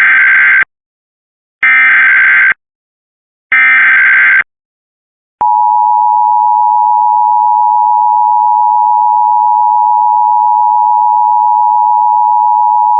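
Emergency Alert System header for an Amber Alert: three short bursts of digital data tones, each about a second long, then the steady two-tone EAS attention signal, which begins about five seconds in and holds for about eight seconds.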